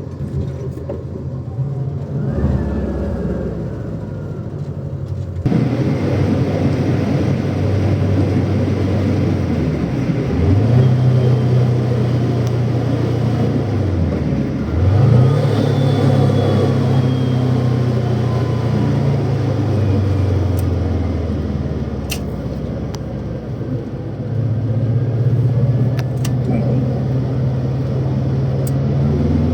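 1995 Volkswagen Beetle's 1.6-litre fuel-injected air-cooled flat-four running under way. The engine note drops away and picks up again at two gear changes, about ten and fifteen seconds in, then holds steady.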